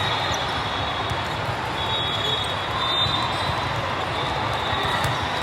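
Indoor gym noise during a volleyball match: a steady din of the hall with scattered faint ball bounces and knocks on the court, and brief thin high squeaks about two to three seconds in.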